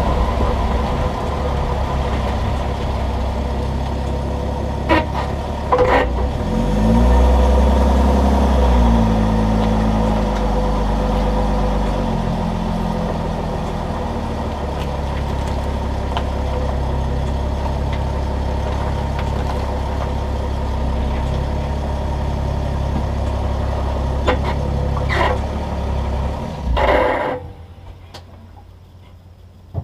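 Vehicle driving, with steady engine and road noise; the engine pitch rises for a couple of seconds about seven seconds in, then settles. A few sharp knocks come through, about five and six seconds in and again twice near the end, typical of the suspension clunk being tracked down, before the running noise drops away.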